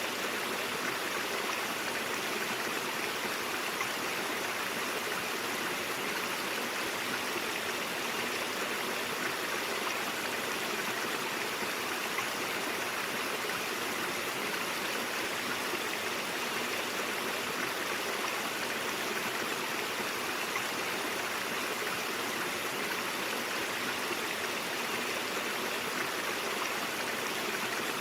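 Brook water flowing steadily, an even rushing that does not change.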